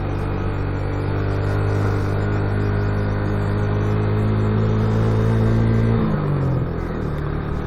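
Motorcycle engine running steadily under way, its note climbing a little, then dropping to a lower pitch about six seconds in.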